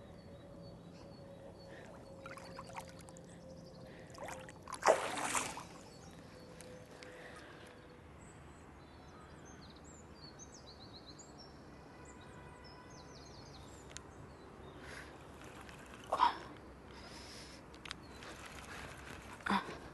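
Shallow lake water splashing in short bursts: the loudest about five seconds in, about a second long, then two briefer splashes later on, over a quiet outdoor background.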